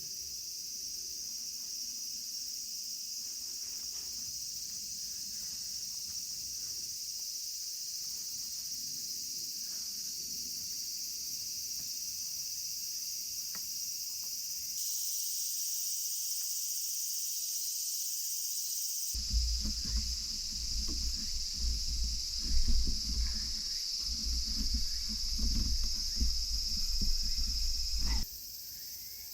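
Outdoor insect chorus, a steady high-pitched trill. From about two-thirds of the way in, a stretch of irregular low rumbling noise rises over it, then stops abruptly near the end.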